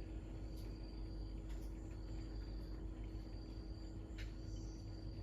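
Insects trilling outdoors in repeated high-pitched stretches about a second long, over a steady low hum, with a short sharp chirp about four seconds in.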